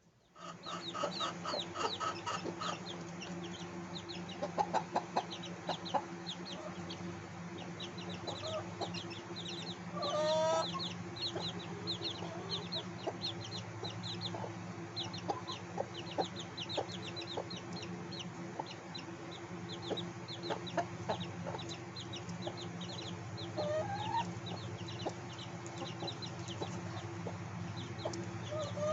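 A brood of hatchlings peeping rapidly and without pause, with a mother hen clucking low among them and a few louder upward-sweeping calls, over a steady low hum.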